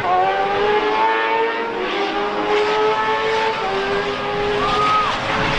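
Motorcycle engine running hard at high revs, its pitch holding high and drifting down slightly with a few small steps.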